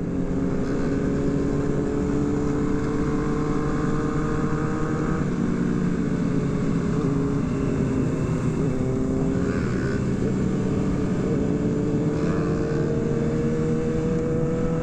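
Sportbike engines running at a steady cruise in a group ride. The engine note wavers around the middle and then rises slowly toward the end.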